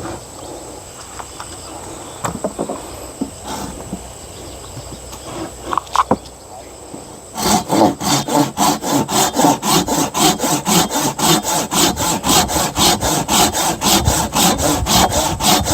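Hand saw cutting through wood in fast, even back-and-forth strokes, starting about halfway in after a few light knocks.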